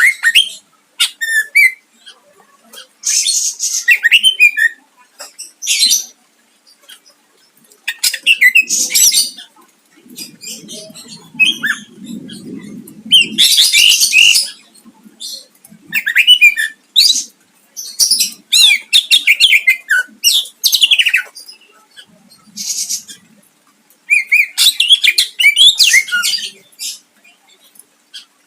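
Cucak ijo (greater green leafbird) singing in loud bursts of rapid, varied chirps, trills and sharp phrases with short pauses between, a song full of mimicked calls of other birds. A faint low rumble sits under the song around the middle.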